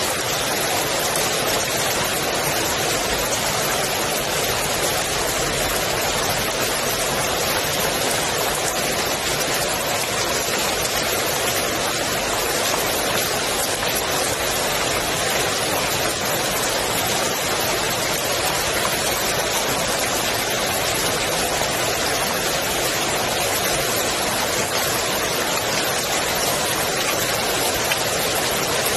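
Rain falling steadily onto a swimming pool's water surface: a dense, even hiss of countless drops that does not change.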